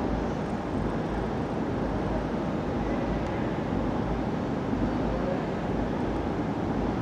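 Passenger train coming slowly out of a tunnel: a steady rumble.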